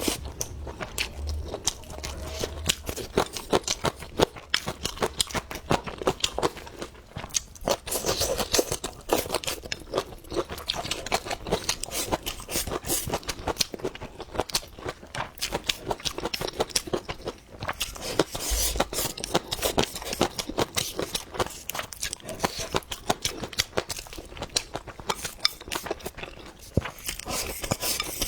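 Close-miked chewing of food, with many sharp, wet crunches in quick succession.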